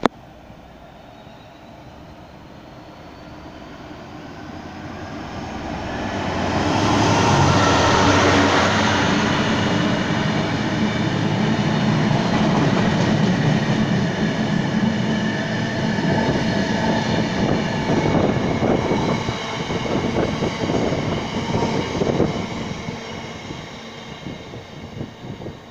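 GB Railfreight Class 66 diesel-electric locomotive, an EMD two-stroke V12, passing under power at the head of a cement tank-wagon train. Its engine grows louder as it approaches and peaks about seven seconds in. Then the wagons roll by with rhythmic wheel clatter over the rail joints, easing off near the end.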